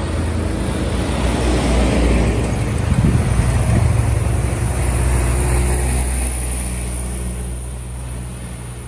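Heavy diesel vehicle's engine running as it passes close by, loudest about three seconds in, then fading as it pulls away.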